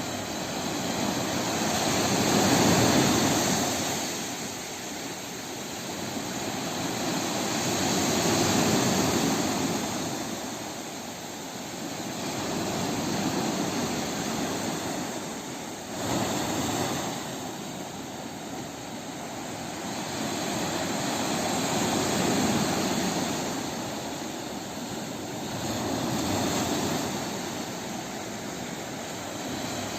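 Sea waves washing in and drawing back: a continuous rushing noise that swells and ebbs about every five or six seconds, with one sharper surge a little past the middle.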